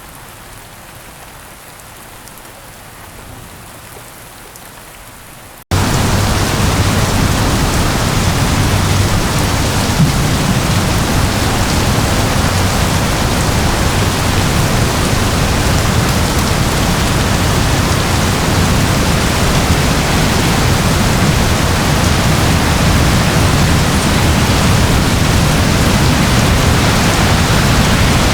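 Steady, moderate rain, then about six seconds in an abrupt cut to a much louder, dense, steady rush of heavy rain with a deep low rumble.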